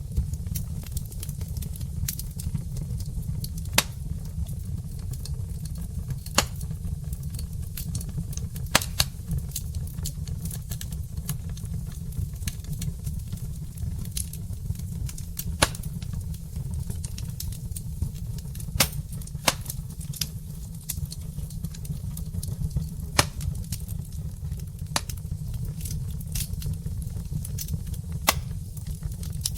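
Wood fire of burning logs crackling: sharp, irregular pops and snaps, about one every second or two, over a steady low rumble.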